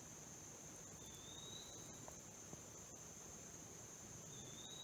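Faint steady high-pitched trilling of crickets in the woods. A short, faint rising whistle comes about a second in and again near the end.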